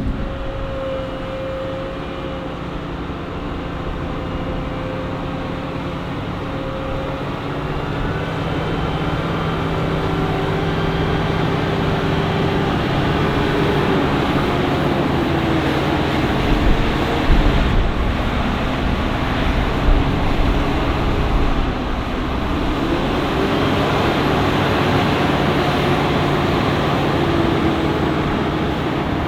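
Large diesel farm machinery working at a maize silage harvest: engines running loudly, their pitch rising and falling under changing load, with a few heavy thumps a little past halfway.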